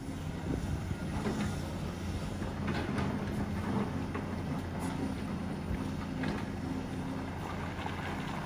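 Excavator's diesel engine running steadily, with scattered clicks and knocks over the hum.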